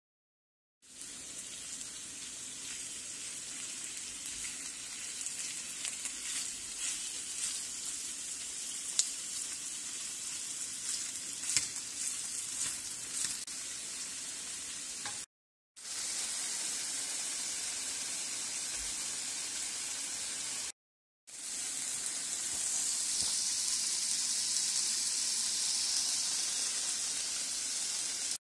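Chicken pieces and diced onion sizzling in oil in a nonstick frying pan, starting about a second in, with scattered pops in the first half. The sizzle drops out twice for a moment and is louder near the end.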